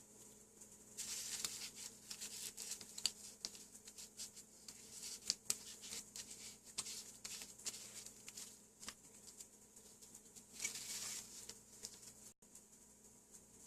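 Light scratching and clicking of small objects being handled, with a brief scraping rush about a second in and another about ten seconds in.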